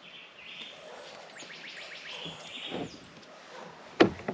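Birds chirping in the background over outdoor ambience, with a short run of faint ticks in the middle and a single sharp knock near the end.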